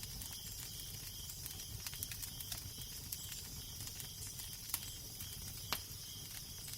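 Wood fire crackling, with many small clicks and two louder pops near the end, over a steady low wind rumble.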